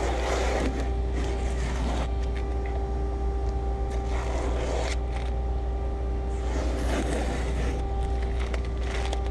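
Short scraping and rustling handling sounds, about five separate bursts, as small plastic trim pieces are worked loose on a car body, over a steady low hum.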